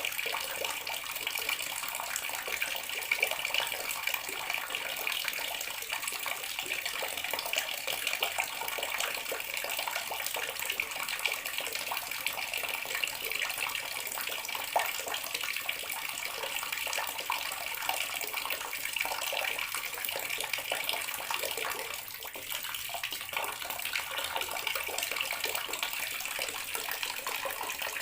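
Water running steadily from a bathroom sink tap, splashing into the basin, with a brief slight drop in level a little before the end.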